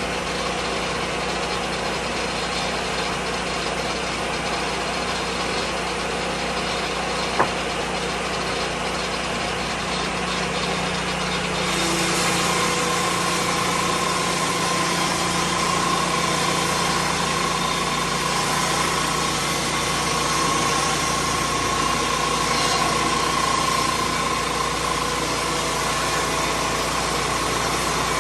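Lucas Mill 10-30 portable sawmill's engine running steadily, with a single sharp click about seven seconds in. About twelve seconds in it grows a little louder and a steady high whine joins it.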